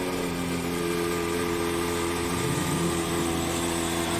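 Lamborghini Veneno's 6.5-litre V12 running at idle, just after starting, with a brief rise in revs about two and a half seconds in.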